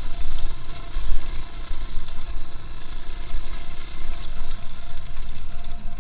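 Steady road and engine noise of a moving vehicle, with a heavy, uneven low rumble.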